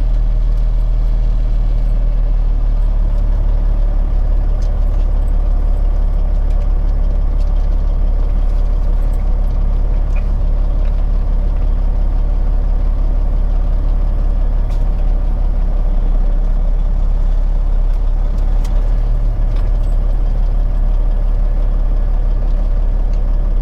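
Peterbilt 379's diesel engine idling steadily with a low, even hum.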